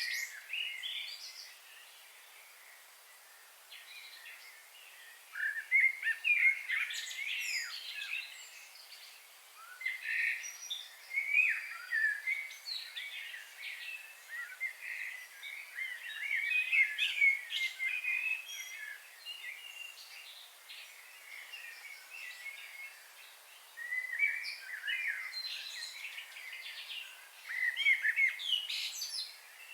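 Songbirds chirping and singing in quick, high-pitched bouts of a few seconds each, with quieter gaps between them.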